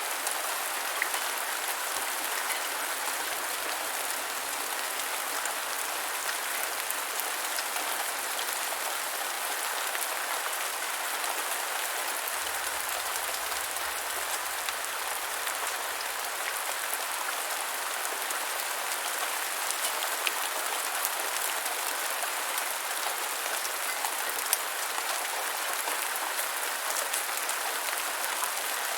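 Steady rain falling on the ground: a dense, even hiss with scattered close drop ticks.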